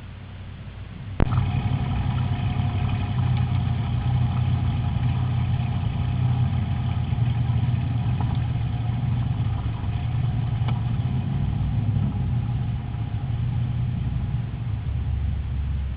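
Drag-racing car engine idling steadily with a low rumble. It cuts in abruptly about a second in and drops away at the very end.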